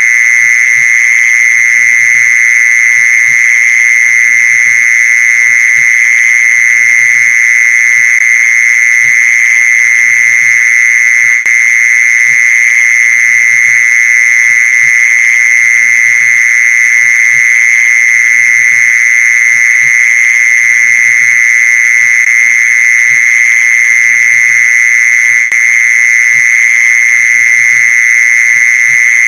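Mole cricket's song: a loud, steady, unbroken high trill that does not change. It is used as a lure call to draw mole crickets in.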